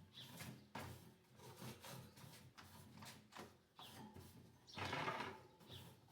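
Faint hand-cleaning noises on the plastic parts of a wall fan: scattered rubbing and scraping with short high squeaks, and a louder rub about five seconds in.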